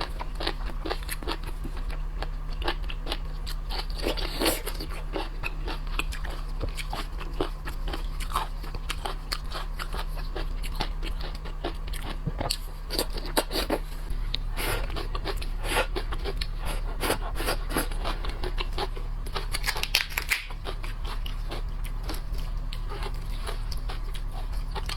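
Close-miked eating of shellfish: shells crackling and being pulled apart, with biting, crunching and chewing in quick irregular clicks. A steady low hum runs underneath.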